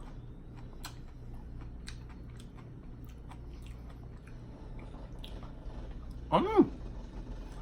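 A person chewing and biting food at close range, with scattered small clicks and crunches from the mouth. About six seconds in, a short hummed vocal sound rises and falls in pitch.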